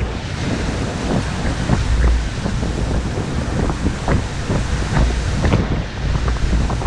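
Wind-driven lake waves splashing and washing against the shore in a steady, irregular series of splashes, with strong wind buffeting the microphone as a low rumble underneath.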